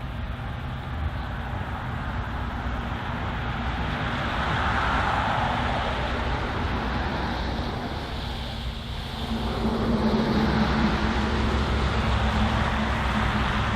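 Steady rushing noise of a passing vehicle, swelling and easing, with a steady low engine hum joining about two-thirds of the way in.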